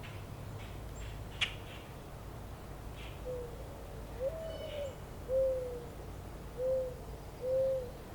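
A bird calling in five low hoots, the second one longer and pitched higher than the rest, over a steady low outdoor rumble. A single sharp click sounds about a second and a half in, and faint high chirps are heard.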